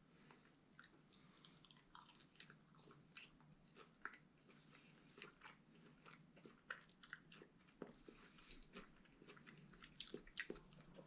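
A person chewing a mouthful of a sub sandwich, faint, with irregular small mouth clicks.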